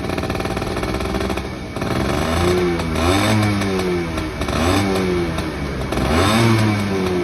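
Suzuki Van Van RV50's single-cylinder two-stroke 50cc engine revving up and down about four times, its pitch rising and falling with each blip of the throttle.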